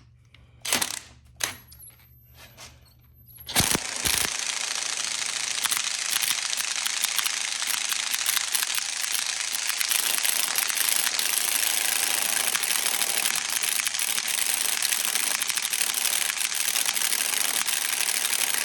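A few clicks, then an impact wrench hammering without a break for about fifteen seconds on the left-hand-threaded front sprocket bolt, stopping sharply near the end.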